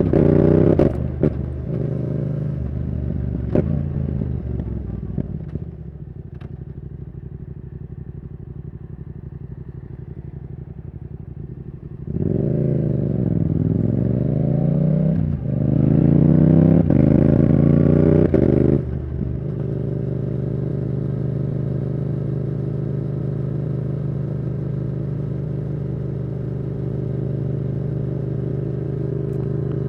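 Yamaha R7's CP2 parallel-twin engine through a Yoshimura R77 exhaust. It slows off the throttle with a few sharp cracks at first, then runs low and steady. About twelve seconds in it pulls hard twice, with a brief break for a gear change between the pulls, before settling back to steady, lower running.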